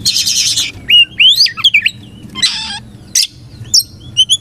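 Oriental magpie-robin singing: clear whistled notes that slide up and down, broken by harsh rasping bursts, a long one at the start and another about two and a half seconds in.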